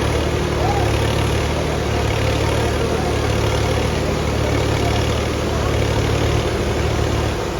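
Diesel tractor engine running steadily at a constant pitch, with a slight change in the drone near the end.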